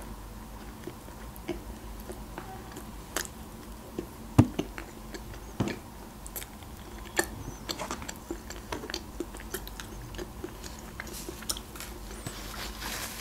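A person biting into and chewing a toasted-bread club sandwich, with scattered crunches and small mouth clicks; the sharpest crunches come about four and a half and five and a half seconds in.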